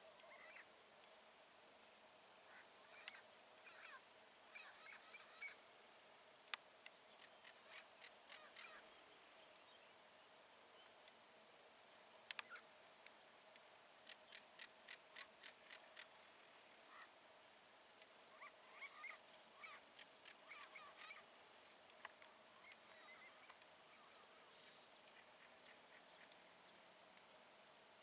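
Saffron finches calling faintly: scattered short chirps and quick runs of repeated notes, over a steady high insect drone. A couple of sharp clicks stand out, the loudest about twelve seconds in.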